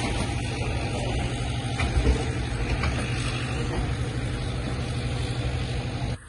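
Loaded freight wagons of a coal train rolling slowly past, a steady rumble of steel wheels on rail over a low, even drone from the train's diesel power pushing from the rear.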